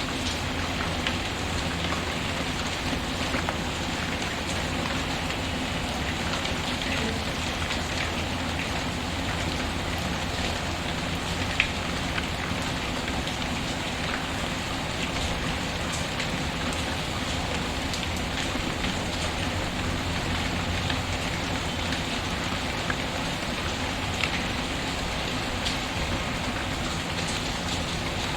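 Steady rain mixed with a crackling wood fire: an even hiss throughout, with scattered sharp pops and ticks, the loudest about twelve seconds in.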